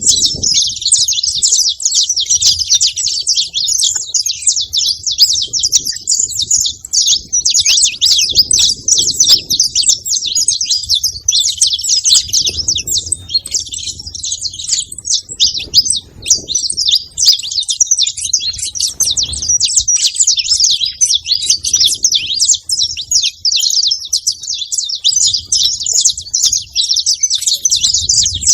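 Saffron finch chirping and singing without a break, a fast, dense run of short high notes.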